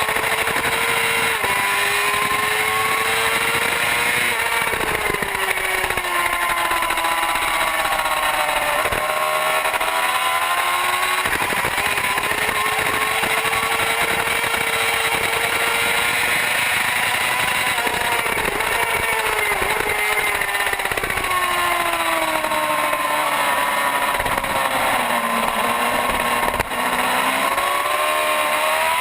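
Racing superbike engine at high revs through a lap, with heavy wind rush: the pitch climbs and breaks repeatedly on gear changes, sinks slowly on a long stretch of braking and deceleration near the end, then climbs again.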